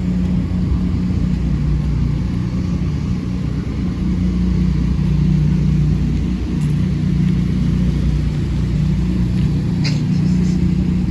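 An engine running steadily, a low, even hum that holds the same pitch and loudness throughout.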